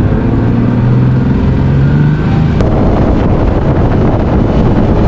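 Bass boat's outboard motor running under way, its engine tone giving way about two and a half seconds in to a loud rush of wind on the microphone as the boat speeds up.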